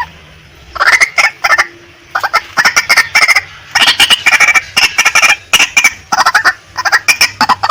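Female white-breasted waterhen calling: loud, short bursts of rapid clucking notes, several notes to a burst, the bursts coming one after another with brief gaps.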